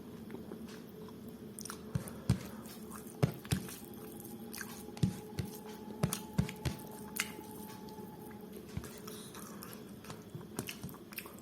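Close-miked chewing and mouth sounds of a person eating rice pulao and mutton curry: irregular soft smacks and clicks, busiest in the middle, over a low steady hum.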